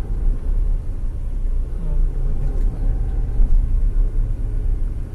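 Steady low rumble of a car's engine, heard from inside the cabin. About two seconds in there is a brief low, falling vocal sound.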